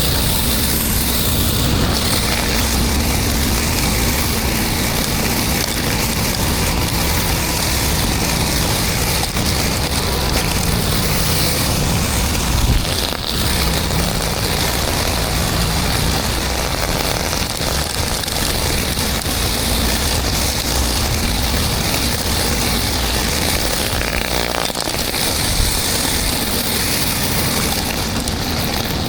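Pressure washer engine running steadily under load, with the hiss of high-pressure water spraying across concrete.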